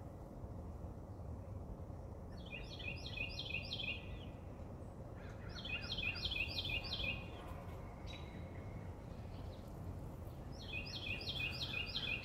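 A songbird singing three times, each song a quick run of repeated, falling high notes lasting under two seconds, over steady low background noise.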